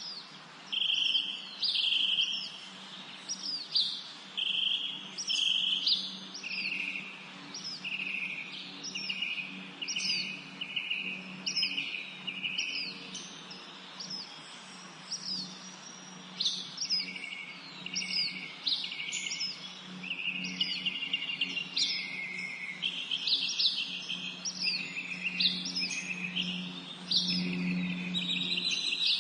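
Several songbirds singing and chirping in a spring forest chorus, with quick down-slurred notes and short trills repeating every second or so. A faint steady low hum runs underneath.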